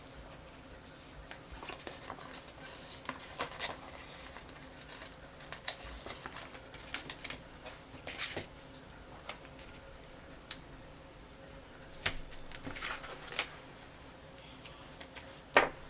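Scattered light clicks, taps and paper rustles of planner stickers being peeled and pressed onto paper pages, with a sharper tap about twelve seconds in and another near the end. A faint steady hum runs underneath.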